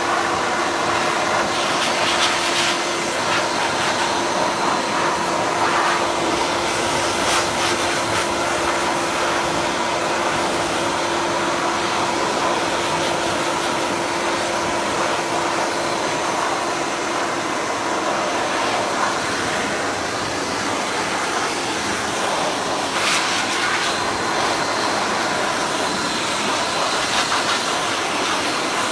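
Pet grooming blow dryer blowing steadily on a cat's wet fur: a continuous rush of air with a steady low hum that fades out about halfway through.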